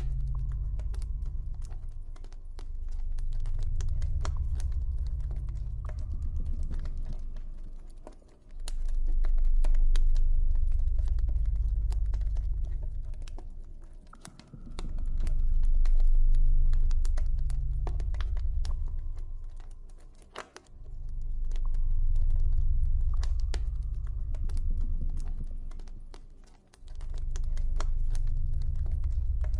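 Campfire crackling with frequent small pops and snaps, over a deep ambient drone that swells and fades every few seconds.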